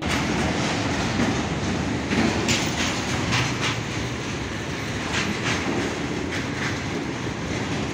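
Freight train of tank wagons rolling past at speed, with steady wheel-and-rail rumble. The wheels clatter over rail joints in repeated pairs of clicks.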